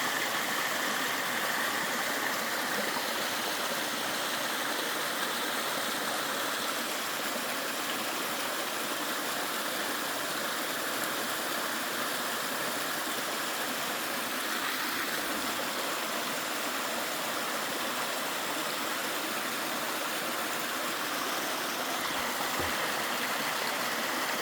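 Mountain stream rushing and splashing over and between rocks in a steady flow.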